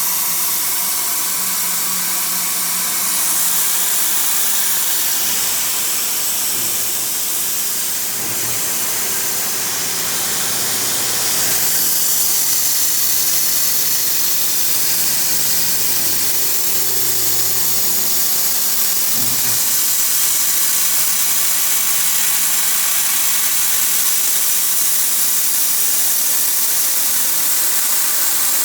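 CNC mill-turn machine running while machining a shaft: a steady loud hiss with a low mechanical hum underneath that fades out about two-thirds of the way through.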